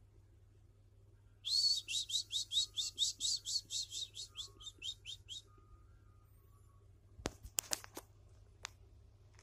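A tame bird calling: a quick run of about twenty sharp chirps, about five a second, slowing and fading toward the end. A few sharp clicks or taps follow near the end.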